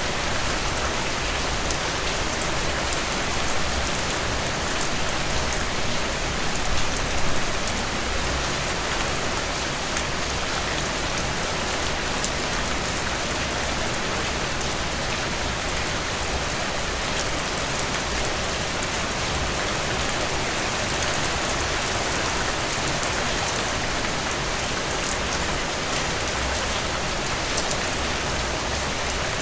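Steady rainfall, drops pattering on a surface with fine scattered drop ticks, a little louder for a moment about seven seconds in.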